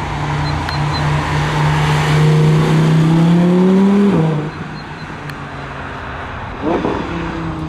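Supercar engine held at raised revs, pitch creeping up for about four seconds, then dropping back toward idle; a short rev blip near the end.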